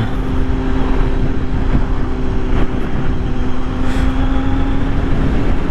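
Kawasaki Z900's inline-four engine with a Leo Vinci slip-on exhaust running at a steady pitch, under a dense low rumble.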